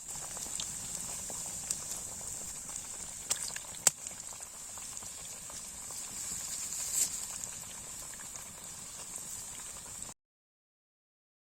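Hot oil bubbling and sizzling around frying chicken wings, a steady hiss with scattered sharp pops. It cuts off abruptly near the end.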